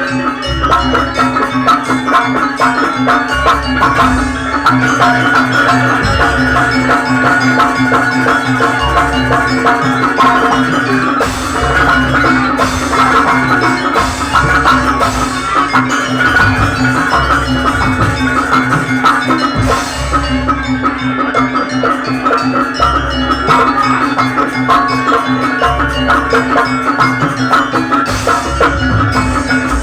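Live traditional mocoan music played by an ensemble of mallet percussion and drums, running continuously over a steady held tone with regular drum strokes.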